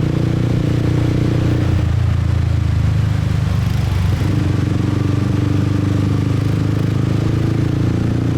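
Motorbike engine running while riding through city traffic, with a steady drone whose note shifts about two seconds in and again around four and a half seconds in.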